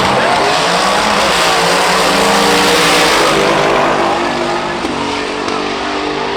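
Loud car engine noise that starts suddenly, with several engine tones over a dense rush of noise. It holds for about three seconds, then eases slightly.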